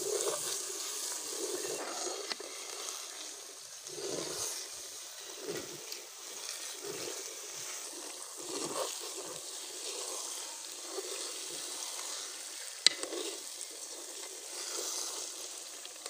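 Semolina roasting in ghee and caramelised sugar in a metal karahi over a low flame, sizzling steadily while a metal spatula stirs and scrapes it in strokes about every second. One sharp knock of metal on the pan comes about three-quarters of the way in.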